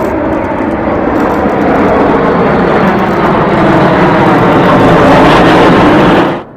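Loud aircraft engine noise of a display plane passing low, growing louder over several seconds, then cutting off suddenly near the end.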